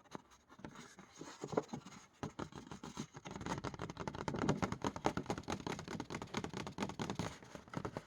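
Dust and fine debris being scraped and tapped out onto a small scale: a busy run of light scratching and clicking, sparse at first and thickest from about two seconds in until near the end.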